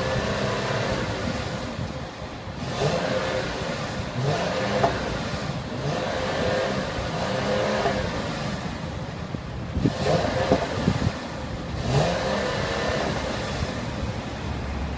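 Mercedes-Benz ML350's 3.5-litre direct-injection V6 being revved in neutral: about six blips in a row, each climbing in pitch and falling back to idle.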